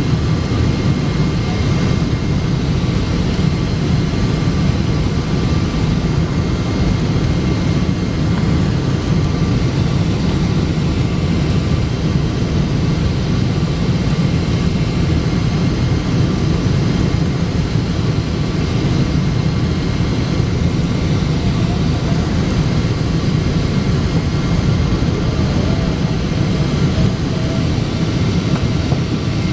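Boeing 777-200 jet airliner heard from inside the cabin on final approach: a steady, loud rumble of engines and airflow with a faint, even whine.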